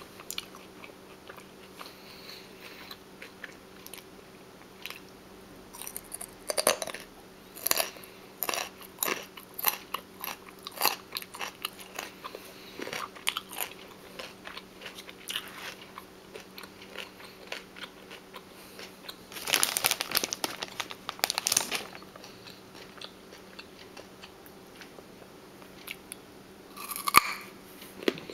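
Close-up chewing of crunchy raw food, sharp crisp crunches coming in clusters of bites. It is sparse for the first few seconds, then dense, with a longer run of crunching about two-thirds through and a faint steady hum underneath.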